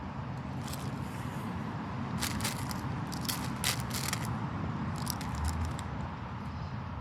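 Empty potato chip bag crinkling and crackling in several short bursts, over a steady low background rumble.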